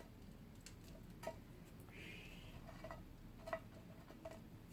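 Wood fire crackling in a traditional firebox: a few scattered sharp pops and a brief hiss, all faint.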